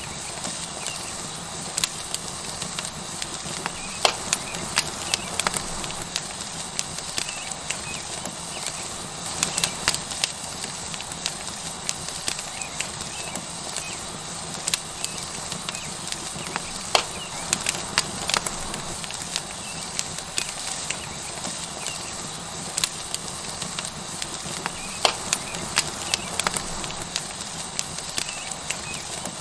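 Tomahawk steak sizzling on a hot rock over a wood fire, a steady hiss with the fire crackling and popping at irregular moments throughout.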